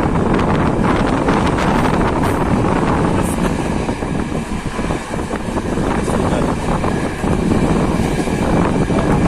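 Passenger train running: steady rumble of the train on the track mixed with wind buffeting the microphone.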